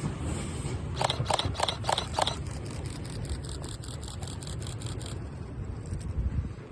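Yagan Railway 6050 series train's wheels clacking over rail joints: a quick run of about five sharp clicks about a second in, then lighter, faster ticks that die away near five seconds, over a low rumble.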